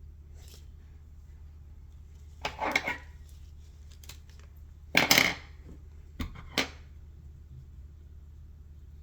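Small metal fly-tying tools clinking and rattling a few times, about two and a half seconds in, once more loudly about five seconds in, then twice briefly near six and a half seconds, over a steady low hum.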